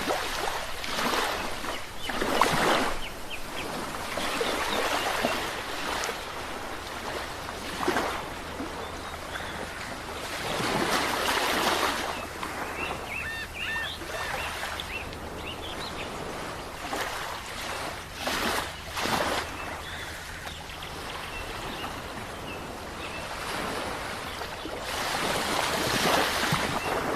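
Ocean waves breaking and washing on the shore, the surf swelling and receding every few seconds. There are a few faint high chirps about halfway through.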